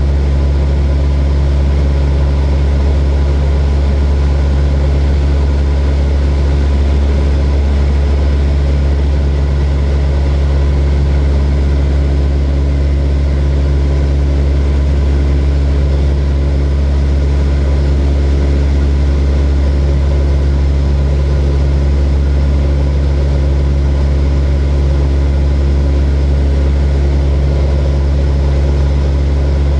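Light propeller airplane's engine and propeller droning steadily in cruise, heard from inside the cabin: a loud, even, low hum that doesn't change.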